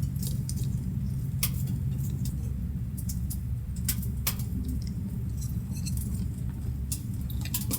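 Scattered light clicks and clinks of tableware being handled while eating, at irregular intervals, over a steady low rumble.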